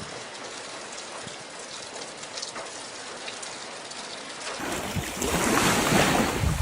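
Steady patter of rain. About four and a half seconds in, it cuts to louder wind buffeting the microphone, with water surging.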